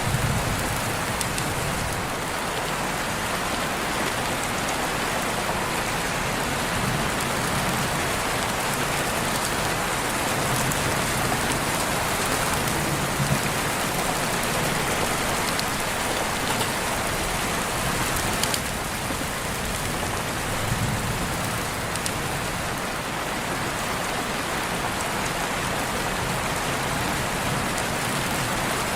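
Steady rain falling, an even hiss with a few louder single drops ticking out of it now and then.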